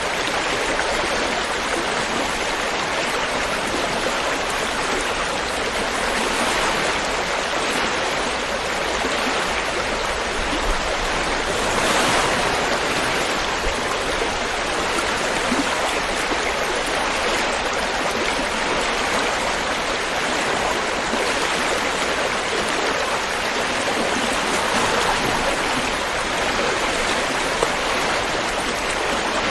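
River water rushing and babbling over rocks in a steady, continuous flow.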